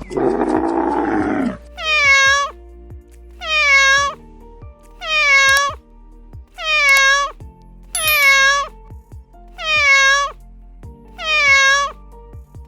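A cat meowing again and again, seven meows about a second and a half apart, each sliding down in pitch. A low animal growl comes before the meows, and background music plays under them.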